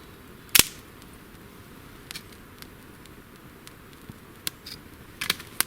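Sharp snaps and clicks from wet twigs being laid on a newly lit campfire. One loud snap comes about half a second in, then a few scattered smaller clicks.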